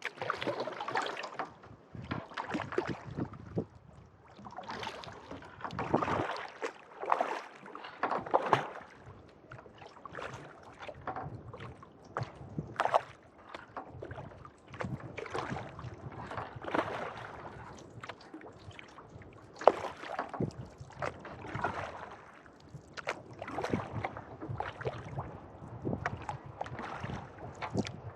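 Kayak paddle strokes: the blades dipping into and pulling through lake water with splashes and drips, in a steady rhythm of about one stroke every one to two seconds. A single sharp click stands out about two-thirds of the way through.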